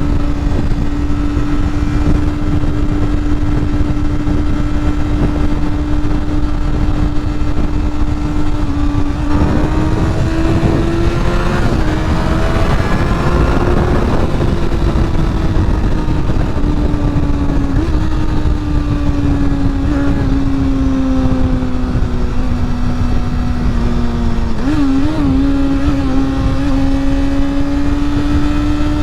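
Honda CBR sport motorcycle engine running at a steady cruise over wind and road rush. The revs climb about ten seconds in, ease off slowly over the next ten, and blip briefly near the end.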